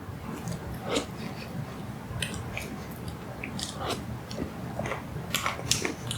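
Close-miked chewing of a mouthful of apple pie, with scattered wet mouth clicks and smacks.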